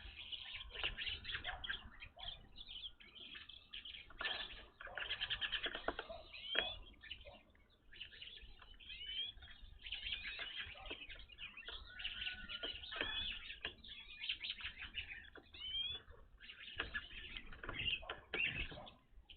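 A flock of evening grosbeaks calling at a feeder: many short, overlapping chirps and clear notes that bend up and down in pitch, with scattered clicks and knocks among them.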